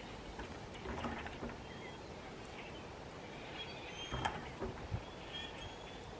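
Quiet outdoor ambience: faint bird chirps over a low background hush, with a few light clicks and taps from handling food.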